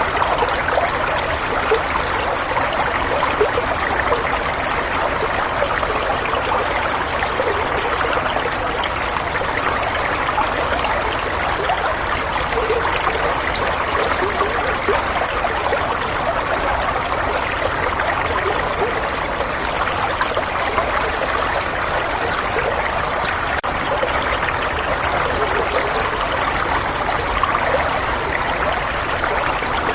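Running water flowing steadily, a continuous babbling trickle like a small stream, with the sound concentrated in the middle range.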